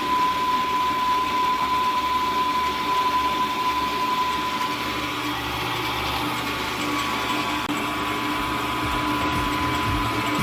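Milling machine running with a steady high motor whine while its end mill takes a cut across aluminum.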